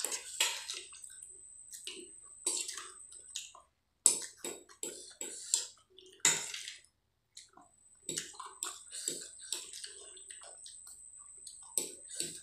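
Close-up wet chewing of spicy Maggi instant noodles, with irregular sticky mouth smacks and slurps.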